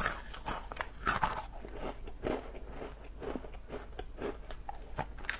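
Close-miked biting and chewing of crisp little fried dough twists (mahua): a run of irregular crunches as the snack is bitten off and chewed.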